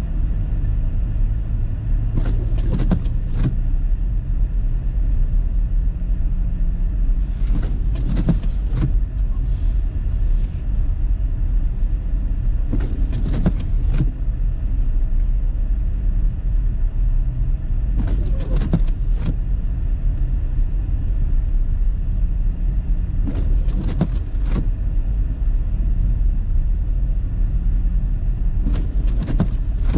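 Car driving through the blizzard, heard from inside the cabin: a steady low rumble of engine and tyres. Short clicking or swishing sounds come in pairs or threes about every five and a half seconds.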